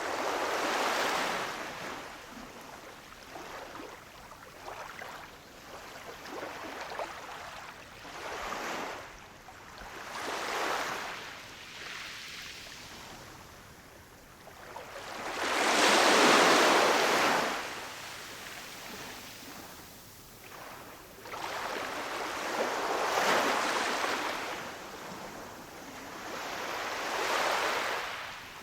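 Ocean waves breaking and washing up on a shore, the surf swelling and fading every few seconds, with the biggest wave about sixteen seconds in.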